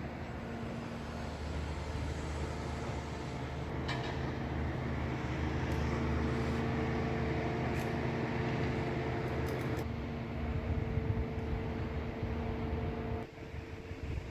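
Steady machine hum over a low rumble, with a few faint clicks. The hum cuts off suddenly about thirteen seconds in.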